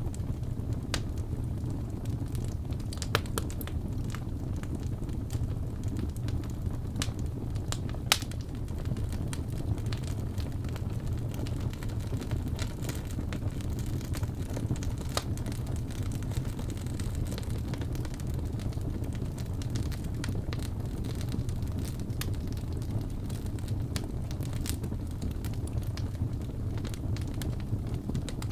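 Wood fire burning in a fireplace: a steady low rumble with scattered crackles and pops, two sharper pops about 3 and 8 seconds in.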